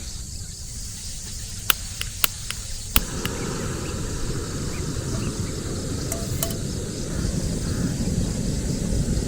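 Outdoor ambience: a steady low rumble of wind-like noise, which gets louder about three seconds in. Several sharp clicks come in the first three seconds and a few more around six seconds.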